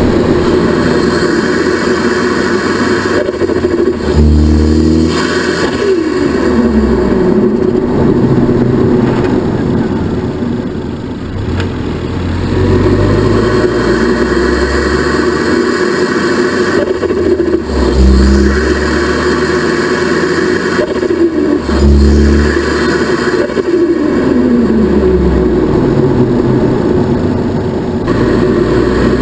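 Ford Focus ST Mk3's turbocharged four-cylinder engine revving up several times and falling back, the revs dropping away in long falling sweeps after each lift-off, with the turbo flutter of the throttle closing on boost.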